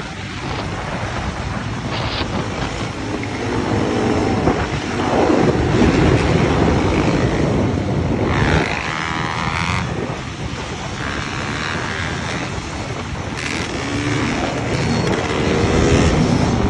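Dirt bike engines revving hard and passing, their pitch rising and falling several times, with wind on the microphone.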